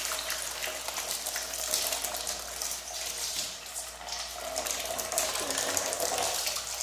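Water running from a tap and splashing steadily over a birdcage being rinsed.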